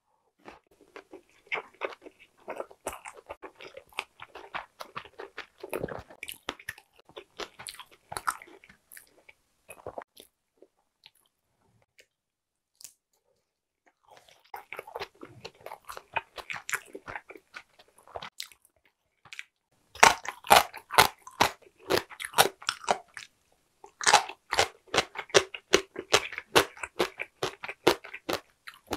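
Close-miked eating: wet chewing of a steamed gyoza dumpling, then a pause about ten seconds in, and from about twenty seconds in loud, crisp crunching of yellow pickled radish (danmuji).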